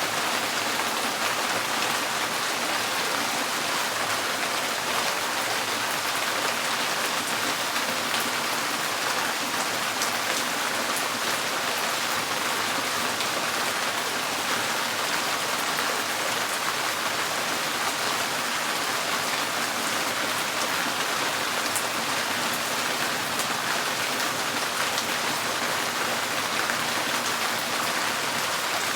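Steady rain drumming on a tin porch roof, a dense even patter of drops that does not let up.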